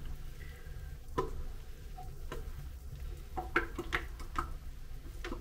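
Light clicks and taps of things being handled at a sink, about half a dozen scattered through, over a faint low hum.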